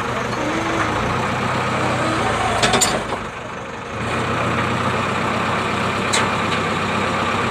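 JCB backhoe loader's diesel engine running steadily, easing off briefly about three seconds in. Two sharp metallic knocks, one just before the engine eases and one about six seconds in.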